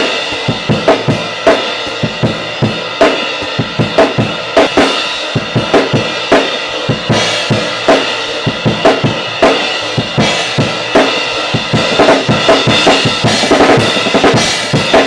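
Live band playing, led by a drum kit: kick, snare and cymbals keep a steady beat of about two strong hits a second under sustained chords.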